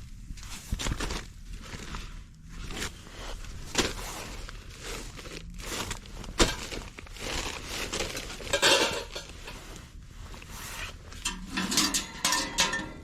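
Irregular clinks and knocks of cookware and utensils being handled, over a low steady hum; a few sharp knocks stand out.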